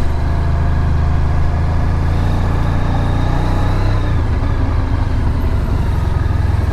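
Honda VFR1200X Crosstourer's V4 engine running steadily on the move, a low even drone over road and wind noise.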